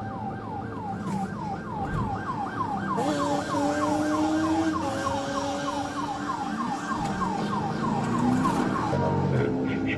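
Police car siren on the fast yelp setting, sweeping up and down about four times a second until it stops about nine seconds in, with a vehicle engine note running underneath.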